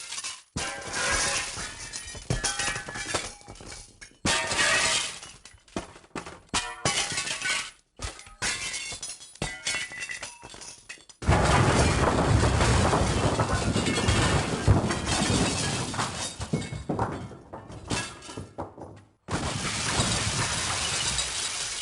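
A series of glass-smash sound effects, one after another: sudden breaks of glass, each followed by tinkling shards. In the middle comes a longer, heavier crash with a deep rumble under the shattering, and another smash starts near the end.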